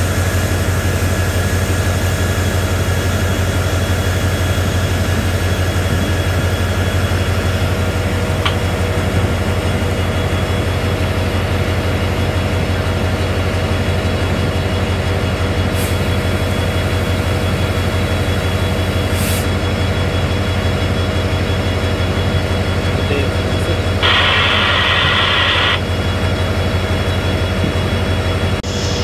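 Train running, its engine making a steady loud low drone with a constant hum over it. A hiss lasting about two seconds comes in near the end.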